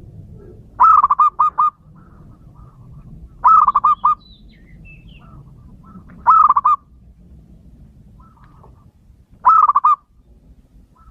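Male zebra dove (perkutut) cooing: four short phrases of rapid, rolling notes, about one every three seconds, over a low steady background hum.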